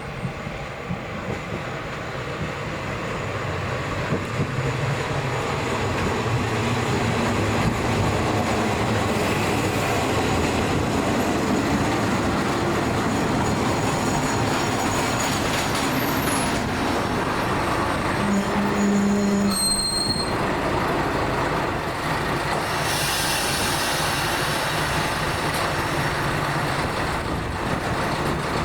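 Diesel railcar running on the rails, the noise of wheels and engine building over the first few seconds and then holding steady, with brief wheel squeals.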